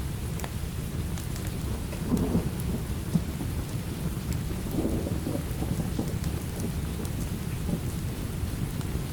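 Steady rain with a continuous low rumble of thunder, swelling a little about two seconds in and again around five seconds, with scattered small crackles and ticks on top.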